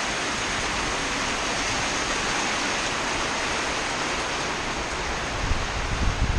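Heavy rain pouring down in a steady hiss. Low buffeting from wind on the microphone comes in near the end.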